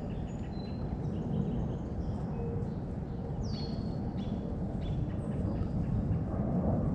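Birds chirping in short high calls over a steady low rumble, with one whistle that slides down and then holds about three and a half seconds in.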